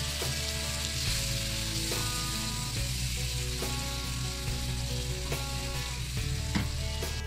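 Onion, ginger and garlic masala paste sizzling in oil in a non-stick pan, stirred with a silicone spatula. This is the bhuna stage, the spices being fried down with a splash of hot water.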